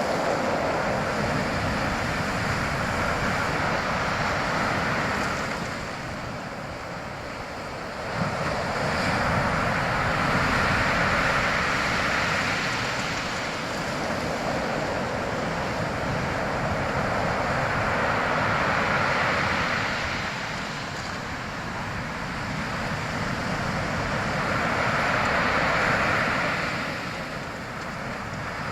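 Sea waves washing onto a shore, a continuous rushing that surges and ebbs about every seven to eight seconds.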